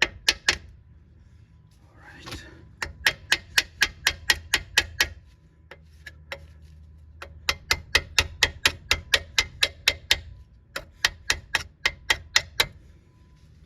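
Rapid metal-on-metal tapping as a tool head chips thick rust off the rusty surface around the ABS wheel-speed sensor hole on a wheel hub. The sharp taps come in runs of about five a second, with short pauses between runs.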